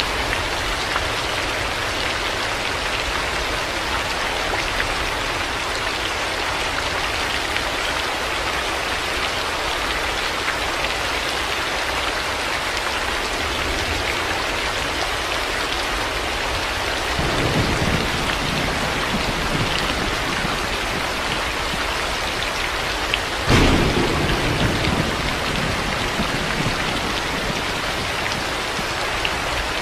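Heavy rain falling steadily. About 17 seconds in there is a soft roll of thunder, and about 23 seconds in a sharper thunderclap that rumbles away over a few seconds.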